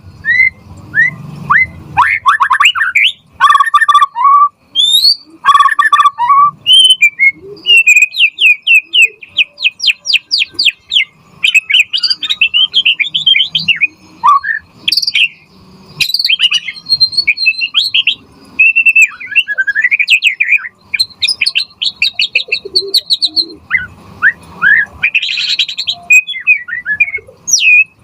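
A white-rumped shama sings continuously in full, fast song: a varied run of clear whistles, pitch glides, trills and rapidly repeated notes, broken by a few harsher, buzzier phrases.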